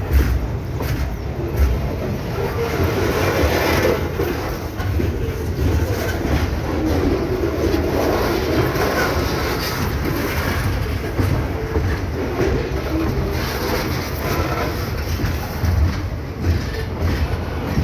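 Rumo freight train rolling past on the rails, a steady rumble with repeated short clacks from the wheels.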